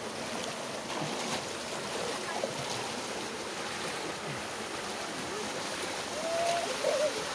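Water of a small waterfall and stream running over rocks, a steady even rush. A couple of short faint calls, like distant voices, come near the end.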